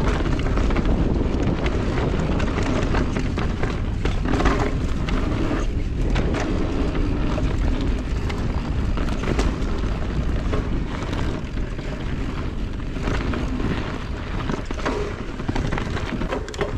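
Wind buffeting the microphone and mountain bike tyres rolling over rough dirt trail, with frequent knocks and rattles from the bike over bumps.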